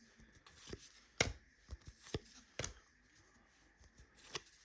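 Trading cards being flipped through by hand, one card sliding off the next with short, crisp snaps of card stock, about half a dozen at uneven intervals.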